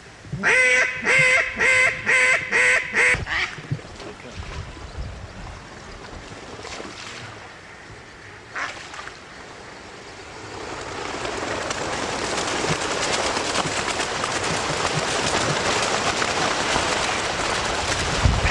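A run of about six loud, evenly spaced duck quacks. From about halfway, a rushing hiss builds up and holds to the end.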